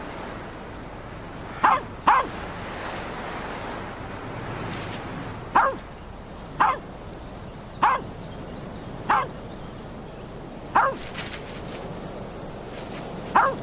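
A dog barking in short, sharp single yaps, eight in all, the first two close together, over a steady rush of wind.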